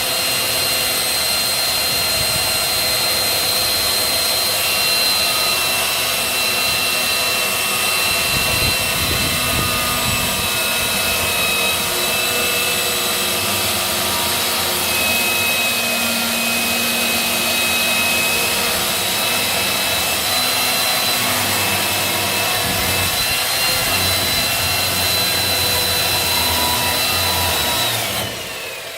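Electric chainsaw running and cutting firewood, its motor whine shifting slightly in pitch under load; near the end it is switched off and the whine falls away as the motor winds down.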